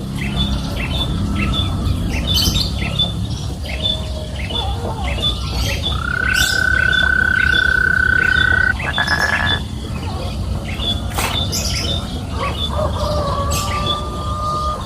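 Birds calling: a short high chirp repeats about twice a second, with a long steady whistle-like note in the middle, over a low rumble.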